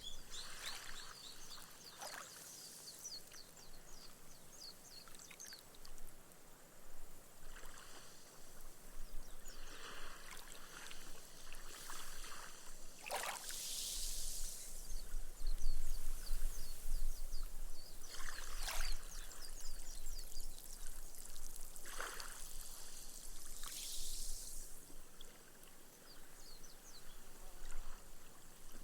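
Small, gentle waves washing up a sand beach one after another, each wash hissing and fizzing as the foam sinks into the sand; the loudest washes come about halfway through and again a few seconds later.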